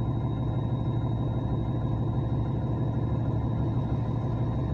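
Steady low rumble of a vehicle engine running evenly, with no revving.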